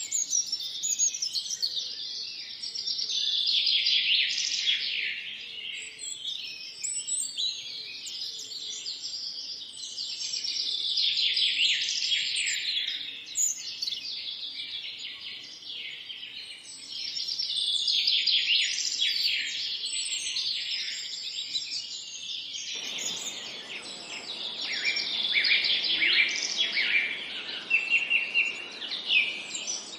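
A dawn-chorus-like mix of several songbirds chirping and trilling over one another in a busy, continuous chorus. About two-thirds of the way through, a steady low background hiss comes in abruptly beneath the birds.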